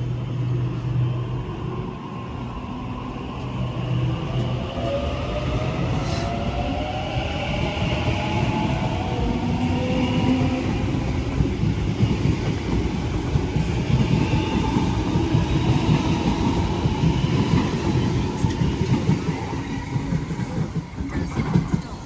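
Sydney Trains Waratah A-set electric train pulling away from the platform: a low hum, then the traction motors' whine rising in pitch as it gathers speed, over a growing rumble of wheels on the rails.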